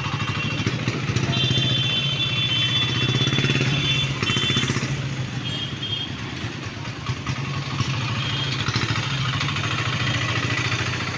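Street traffic noise with motorcycle engines running steadily, and a few high steady tones that come and go in the first half.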